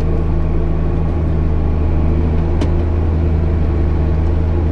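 JCB Fastrac 8250 tractor's six-cylinder diesel engine running steadily under load while pulling a plough, a deep even drone. One brief click about two and a half seconds in.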